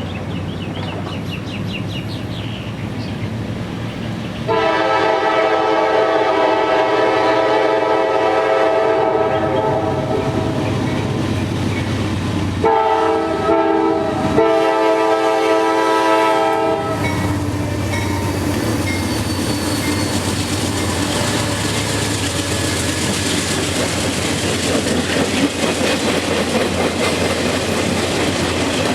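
Freight train's diesel locomotive sounding its multi-tone air horn, first with one long blast lasting several seconds, then with a couple of short blasts and a final longer one, and then the train's cars rolling past steadily.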